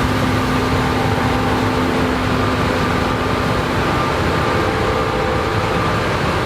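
Combine harvester running close by while harvesting corn: a loud, steady mechanical din with a few steady hums on top of it.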